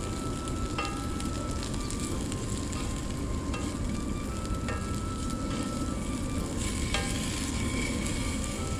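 Food sizzling in a frying pan, with a few sharp clicks of a utensil against the pan.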